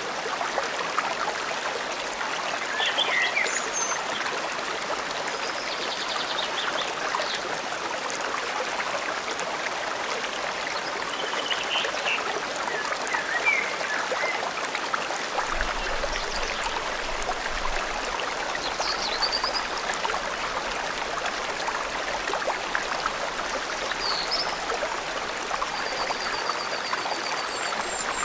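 A forest river or stream flowing steadily, with birds giving short chirps and trilled calls over it every few seconds.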